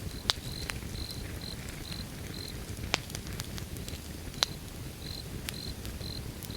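Wood fire burning with a low rumble and scattered crackles and pops, a few sharp and loud. A cricket chirps over it, a short high note about twice a second, pausing partway through.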